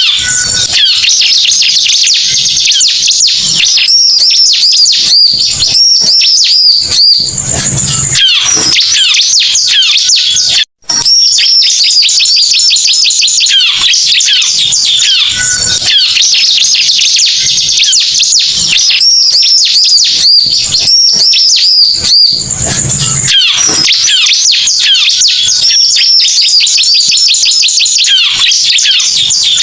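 Bar-winged prinia (ciblek) song played as a loud lure recording: a dense, unbroken stream of high chirps and trills, with runs of quick arched notes that recur about every fifteen seconds, as in a loop. The sound cuts out for an instant about a third of the way in.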